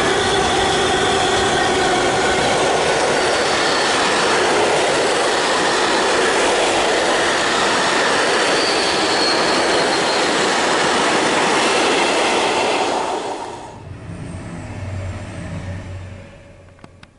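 A train hauled by a diesel locomotive passing close at speed: a loud, steady rush of wheels on rail, with a few held high tones from the wheels over the noise. The rush drops away sharply about 13 seconds in as the last wagon clears, leaving a quieter low hum that fades out.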